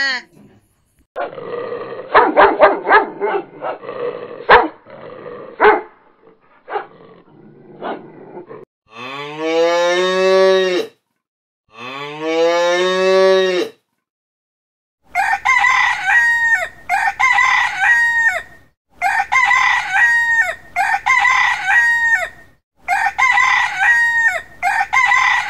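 A run of different animal calls. First come rough, noisy calls, then two long drawn-out calls, then a string of short calls repeated about once a second.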